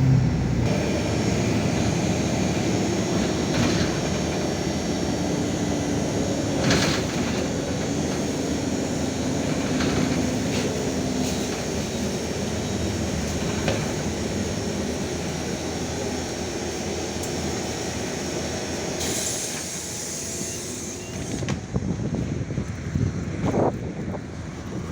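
LiAZ 5292 city bus heard from inside while driving: a steady engine and road rumble that slowly eases off as it slows, with a few knocks. About 19 seconds in there is a brief burst of air hiss, and after it the running is quieter, with irregular bumps.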